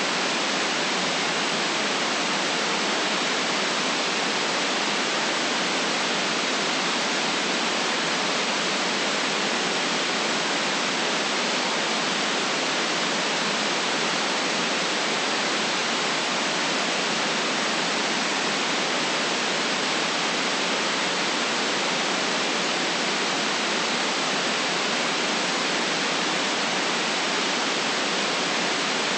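Steady white noise, an even hiss without any change, cut off below the lowest bass and above the highest treble.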